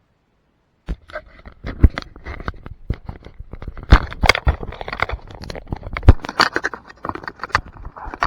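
Handling noise on a camera's microphone: irregular scraping, rubbing and sharp knocks and clicks as the camera is held and fiddled with. It starts suddenly about a second in after dead silence.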